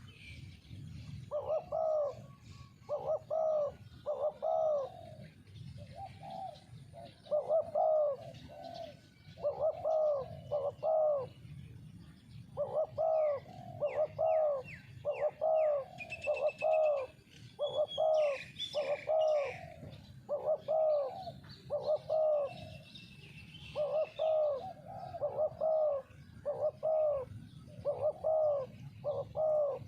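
Spotted dove cooing over and over, its low notes coming in groups of two or three. Another small bird chirps faintly in the middle.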